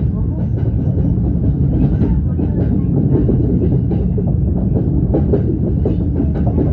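Passenger train running, heard from inside the carriage: a steady low rumble of wheels on rail with irregular clicks and clacks as the wheels cross rail joints.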